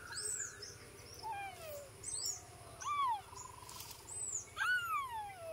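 Birds calling in the trees: a string of short whistled calls one after another, some arching high and thin, others sliding down in pitch.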